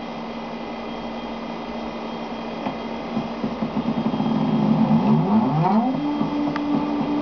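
Stepper-driven X axis of a homemade CNC router moving: a steady electrical hum gives way to a pulsing motor whine about three seconds in. The whine glides in pitch around five seconds in, then settles into a steady tone.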